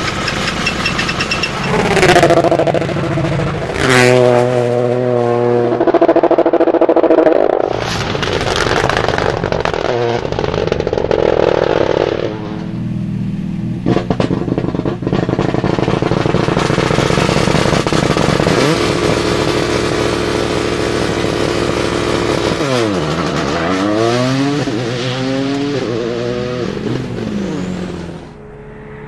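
Toyota GR Yaris Rally2 rally car's turbocharged three-cylinder engine revving hard, its pitch rising and falling, with several sharp cracks through the exhaust. Near the end the revs drop, then climb again several times in quick succession.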